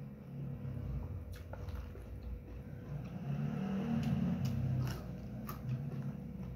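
Close-miked chewing of a mouthful of soto noodles, with a few short sharp clicks scattered through it.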